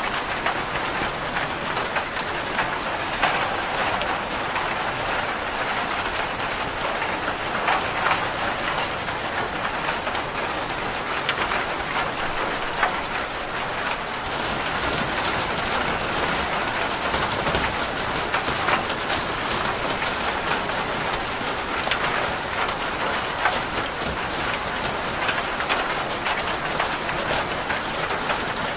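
Steady rain falling on a roof, a constant hiss dense with the taps of individual drops.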